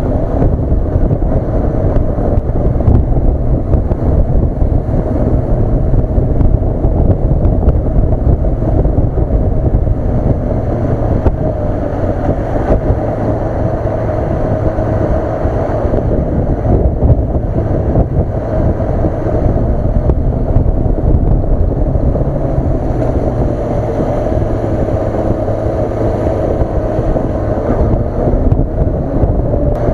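Honda CB400 Super Bore's inline-four engine running at a steady cruise, with wind rushing over the action camera's microphone as the motorcycle rides along.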